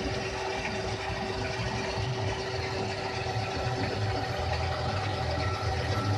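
Flat-belt-driven Alfred Erikson lathe of about 1940 running steadily, a constant machine hum with a steady tone.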